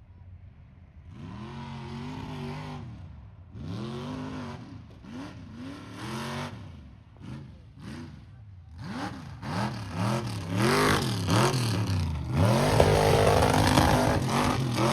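Mega truck's big engine revved in repeated throttle blasts, pitch climbing and falling each time, the blasts coming closer together and louder, ending in a long full-throttle run near the end.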